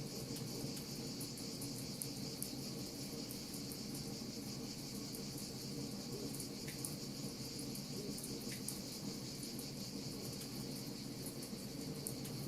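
Wood fire crackling with many small sharp pops, over a steady high-pitched hiss and a low, even rumble.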